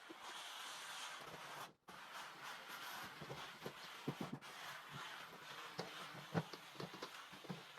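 Steam mop hissing steadily, with light knocks and clicks as it is worked across the floor. The sound drops out sharply twice.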